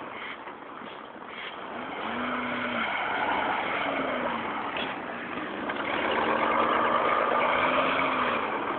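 Car engine revving in several rising and falling surges as the car pulls itself out of deep snow, getting louder in the second half.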